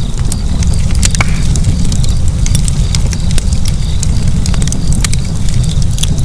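Wood fire burning, crackling with many sharp, irregular pops over a steady low rumble of the flames.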